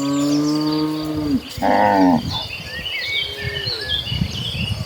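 Cattle mooing: one long low moo lasting about a second and a half, then a shorter, higher-pitched moo about two seconds in.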